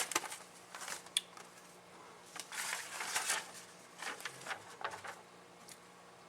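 Plastic packaging of a transmission seal kit rustling and crinkling in irregular bursts as the seals are handled and sorted by hand, with a few light clicks; it falls quiet near the end.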